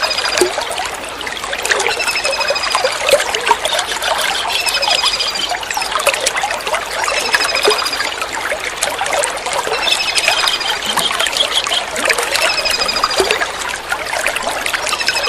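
A kingfisher repeats a short, rattling trill about every two and a half seconds over steadily trickling water.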